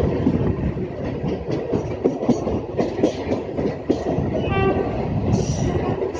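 Train passing through the station, its wheels clattering over the rails in a steady run of clacks. A short high tone sounds about four and a half seconds in.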